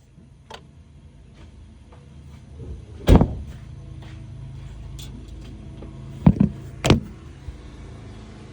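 GM LC9 5.3-litre V8 idling steadily at low speed. A loud thump about three seconds in and a few more close together near the end, like a door or hood being shut, stand out over the idle.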